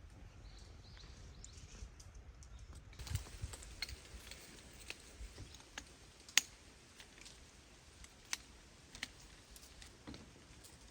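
Irregular light clicks and taps that start about three seconds in, with one sharper click a little past the middle.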